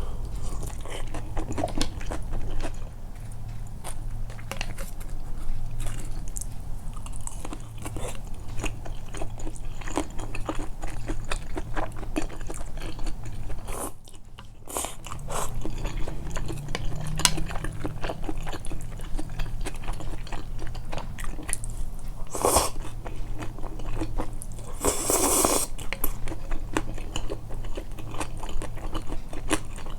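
Close-miked chewing and biting of tempura and soba: a dense run of small wet clicks and crunches, the tempura soft rather than crisp. It pauses briefly about halfway, and two louder hissing bursts come near the end, the second about a second long.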